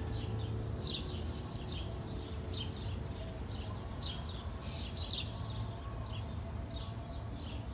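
Small birds chirping over and over, many short, high notes that sweep downward, over a low steady background rumble.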